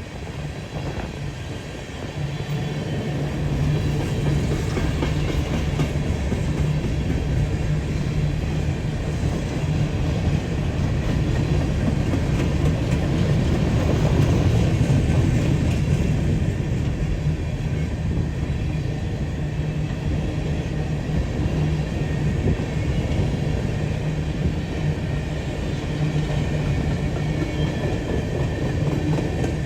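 A loaded coal train passing close by: diesel locomotives running with a steady low engine note, then the wagons rolling over the rails. The sound builds over the first couple of seconds and is loudest about halfway through.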